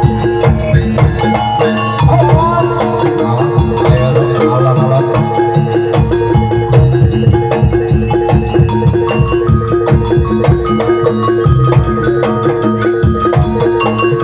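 Gamelan-style music: ringing metal mallet instruments over a steady beat of hand drums, with a wavering melody line rising above them early on.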